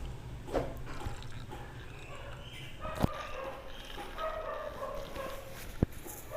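Plastic wall-fan parts being handled, with a few sharp clicks and knocks: one about half a second in, a louder one about three seconds in, and another near the end.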